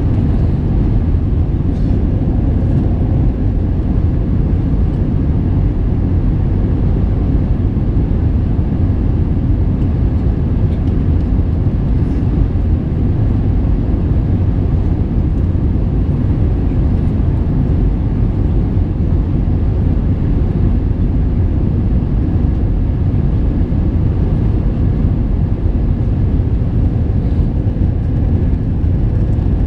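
Airbus A321-231 in flight: a loud, steady drone of its IAE V2500 engines and the rushing air, with a faint steady hum above it.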